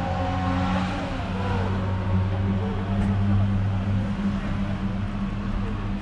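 A car engine idling with a steady low hum, under a faint murmur of people talking.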